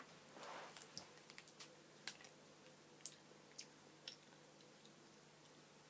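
Near silence with a handful of faint, small clicks about once a second: mouth sounds of a person chewing a soft chewy sweet.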